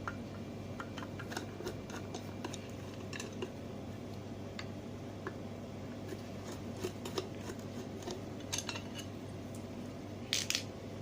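Scattered metallic clicks and clinks of hand tools and screws as a ceiling fan's motor housing is taken apart, with a brief louder metal rattle near the end.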